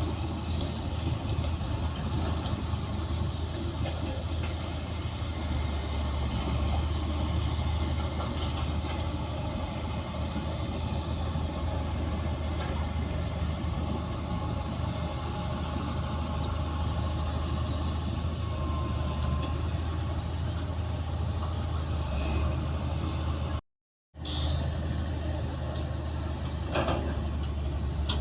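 Heavy diesel engine of a Komatsu D60P bulldozer running steadily with a deep low drone. The sound cuts out for a moment near the end, and a few metallic clanks follow.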